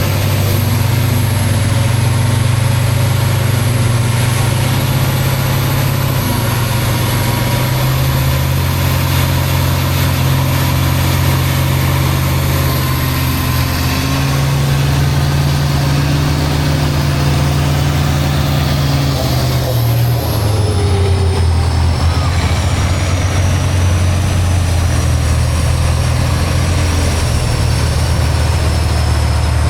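Heavy off-road competition truck's engine running loudly, its pitch shifting a couple of times as the revs change, with a thin high whine that falls in pitch about twenty seconds in.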